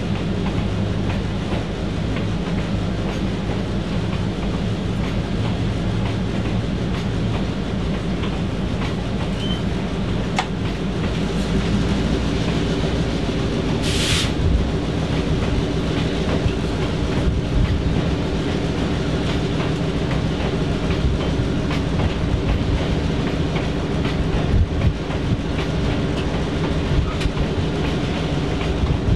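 Diesel-hauled train running steadily, with the locomotive's diesel engine drone and wheels clicking over rail joints. A brief hiss about halfway through.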